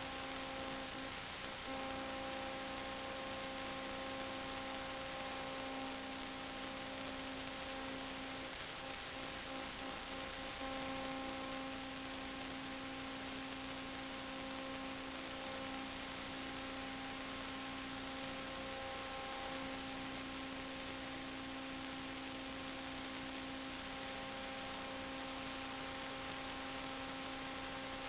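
Steady hum of several held tones over an even hiss. The lowest tone drops out briefly twice.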